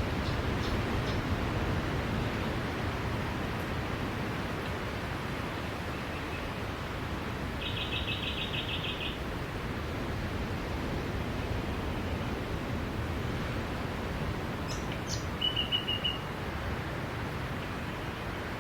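Sea waves washing onto a beach, a steady rushing surf. A bird calls over it: a quick trill of rapid repeated notes about eight seconds in, and a short high call near the end.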